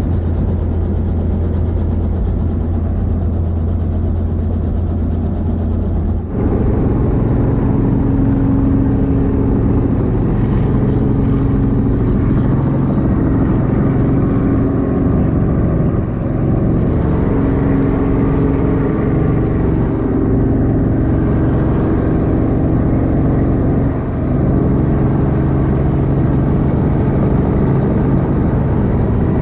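Robinson R44 helicopter's engine and rotor making a loud, steady drone. The pitch and tone of the drone shift abruptly about six seconds in, with brief breaks near the middle and about two-thirds of the way through.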